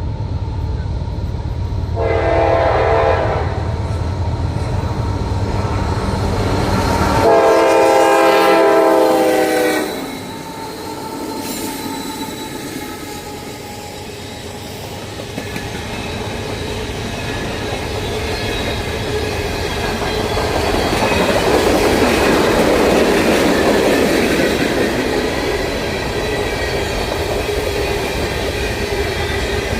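CSX train passing: the locomotive horn sounds a short blast about two seconds in and a longer one a few seconds later, over the diesel's low rumble. The rumble then drops away, leaving the cars rolling by with clickety-clack and a faint wheel squeal.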